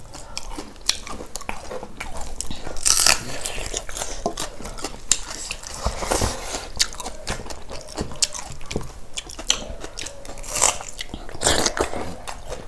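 Close-miked chewing and crunching of fried food, with many small clicks and crackles and a few louder crunches about three seconds in and near the end.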